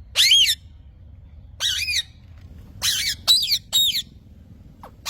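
A parrot squawking: five short, harsh calls, the last three in quick succession.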